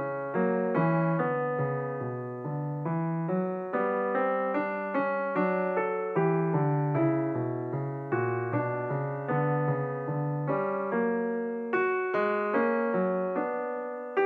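Slow, calm solo piano music, notes struck at a gentle even pace, each chord ringing and fading.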